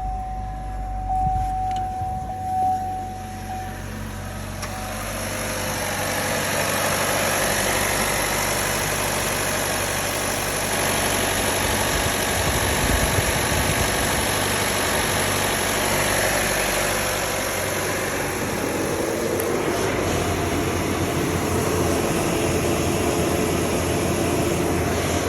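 A 2015 Chevy Trax's 1.4-litre Ecotec turbo four-cylinder idling steadily just after start-up, following a fresh oil change. A thin steady tone sounds over it for the first few seconds, and a steady rushing noise builds up about five seconds in.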